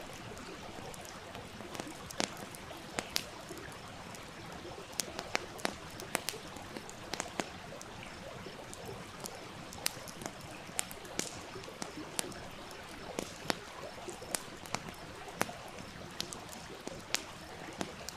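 Wood campfire crackling with frequent, irregular sharp pops over the steady rush of a small stream.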